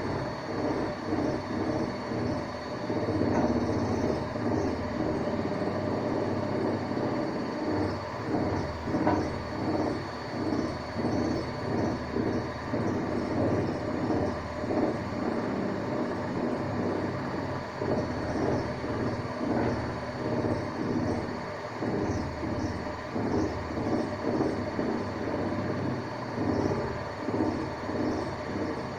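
Hanseatic washing machine spinning, loud, with a continuous rumbling and fast rattling.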